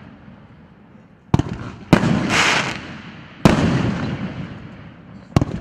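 Large firework battery (cake) firing its shots one after another: four sharp bangs, each trailing off in a fading rumble, with a brief hissing burst just after the second.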